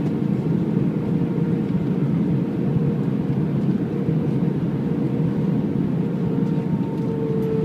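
Steady rumble of an Airbus A319's engines and rushing air, heard inside the passenger cabin, with a steady hum running through it.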